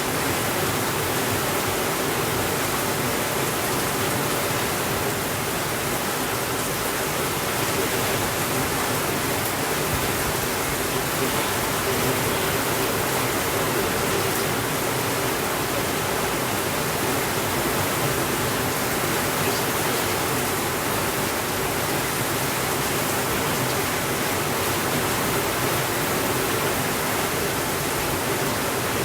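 Steady rainfall, a constant even hiss with no changes in level.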